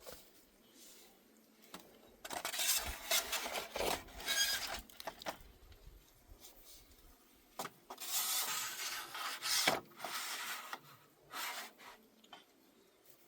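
Scraping and rubbing on bamboo in two bouts of a few seconds each, with a few sharp knocks in between.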